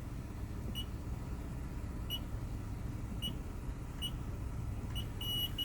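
Car wash code-entry keypad beeping once for each of five digits keyed in, then a longer beep near the end as the code is accepted. A vehicle's engine idles underneath.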